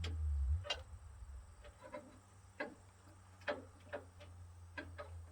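Sparse, irregular sharp clicks and taps of hand work on the grille's fasteners and trim, about eight in all, the loudest near the start, over a steady low hum.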